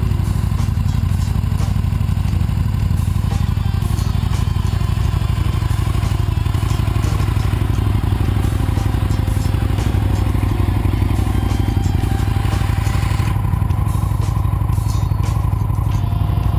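Aprilia Tuono motorcycle engine idling steadily, a low, even rumble of rapid firing pulses with no revving.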